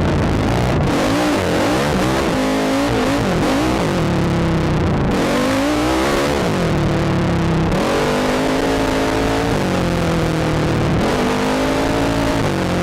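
Quad (ATV) engine revving up and down repeatedly under throttle, its pitch climbing and dropping several times, over a steady rush of noise.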